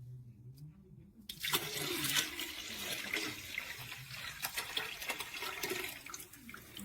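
Water running, splashing with many small crackles, starting suddenly about a second in and easing off near the end.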